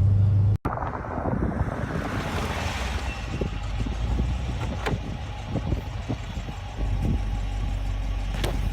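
Wind buffeting the microphone: a rough, gusty rumble with scattered crackles. Before it, a cut ends a short low steady drone.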